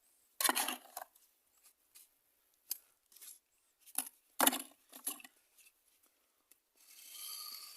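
Mason's trowel scooping wet cement mortar and throwing it onto a mould: a series of short scrapes and slaps. It ends with a longer, steadier scraping sound in the last second or so.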